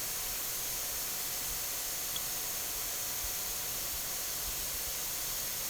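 Steady, even hiss with nothing else in it apart from one tiny tick about two seconds in. The same hiss runs under the narration before and after, so it is most likely the recording's own background noise.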